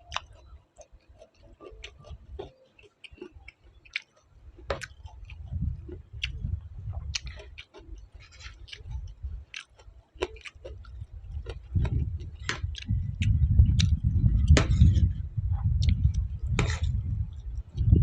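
Close-up eating sounds: chewing and crunching of food, with many sharp clicks and smacks, over a low rumble that grows louder about twelve seconds in.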